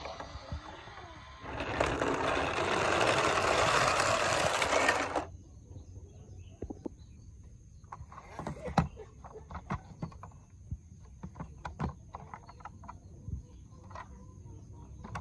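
A small toy motor runs loudly for about four seconds, then cuts off suddenly, followed by scattered light clicks and knocks of plastic toys being handled.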